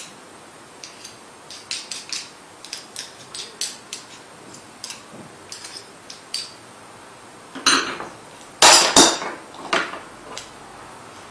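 Light clicks and taps of small hard parts being handled, then a few louder knocks near the end, as the robot vacuum and its front wheel parts are worked on by hand.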